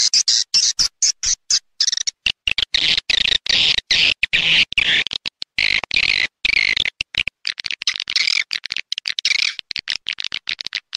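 Recorded swiftlet call sound of the kind swiftlet farmers play to lure edible-nest swiftlets into a nesting house: dense, high chattering chirps, cut by many abrupt short silences.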